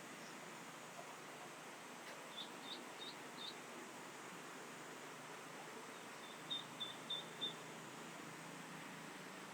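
Eastern spot-billed duck duckling peeping, separated from its mother: a run of four short high peeps, then after a pause a louder run of five, over a steady faint hiss.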